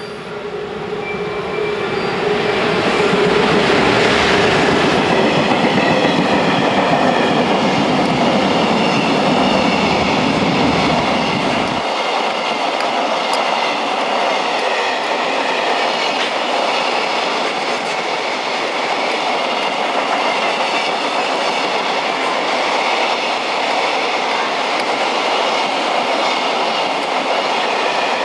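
JR Freight EF210 electric locomotive hauling freight train 2081 through the station, getting louder as it arrives and passes about three to four seconds in. A long string of container wagons follows, with a steady running noise and clatter of wheels over the rail joints.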